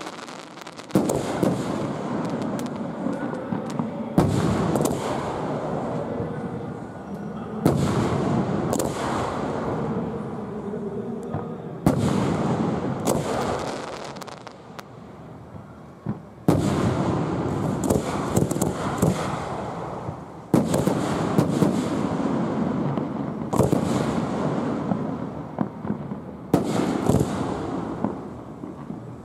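Aerial fireworks show: shells bursting with sharp booms every one to four seconds, about a dozen in all, each followed by a rolling rumble that dies away before the next.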